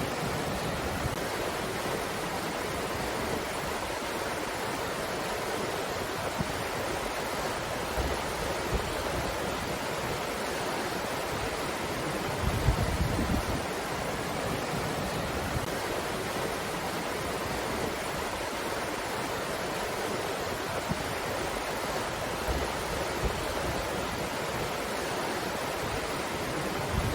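Wind blowing as a steady rushing hiss, with now and then a gust buffeting the microphone in a low rumble, the longest about halfway through.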